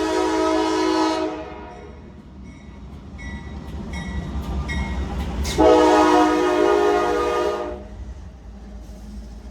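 Diesel locomotive air horn sounding a steady multi-note chord that cuts off about a second in. A low rumble swells through the gap, then a second horn blast of about two seconds starts just past the middle.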